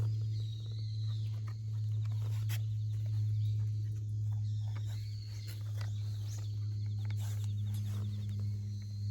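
Outdoor nature ambience: insects trilling in short buzzy runs and a bird calling with rising and falling chirps. Scattered sharp clicks and a steady low hum run underneath.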